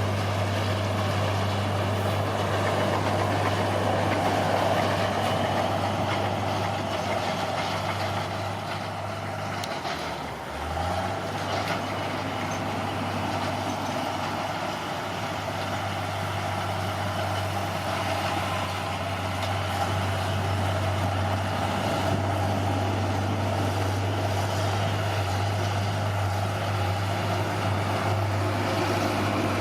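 Bulldozer's diesel engine running steadily under work, its note dropping briefly about ten seconds in before picking back up.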